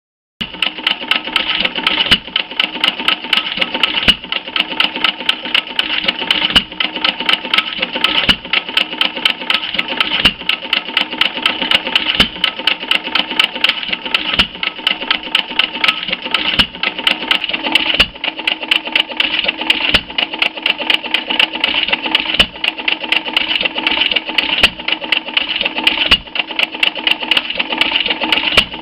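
Termaat & Monahan Co hit-and-miss stationary gas engine, about 1 to 1.5 hp, running with a rapid mechanical clatter and a heavier beat about every two seconds.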